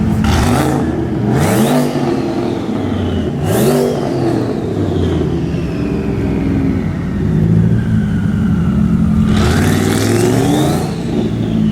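A performance car's engine idling and being revved hard: three quick blips in the first four seconds and a longer rev near the end. Each rev carries a high whine that climbs with the revs and then falls slowly away.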